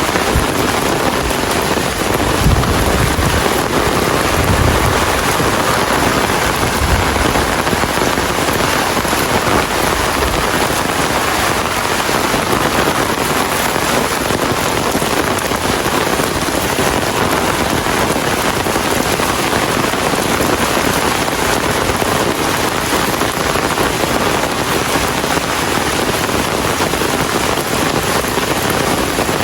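Steady, heavy rain falling and pattering on surfaces, with a low rumble in the first several seconds.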